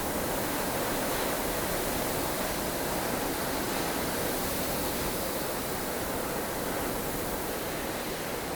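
Strong wind of a snow storm blowing steadily, a dense even rush with no gusts standing out.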